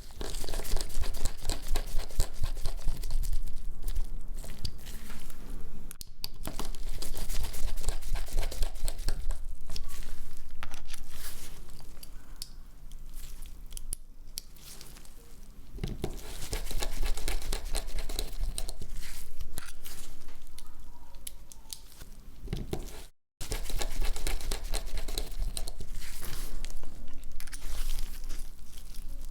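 Close, crackly handling and tearing sounds of hands and tools working on a phone during disassembly, in waves with quieter stretches between. The sound cuts out completely for a moment about three quarters of the way through.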